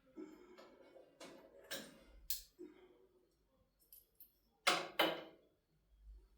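Irregular clicks and light knocks of small objects being handled at a sewing machine, with two sharper knocks close together a little before the end.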